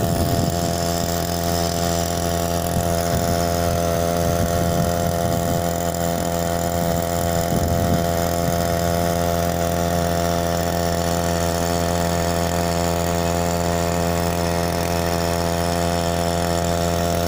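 Small air-cooled two-stroke outboard motor (Matsumoto MOB-830, 3 hp) running at a steady throttle, its pitch holding even throughout.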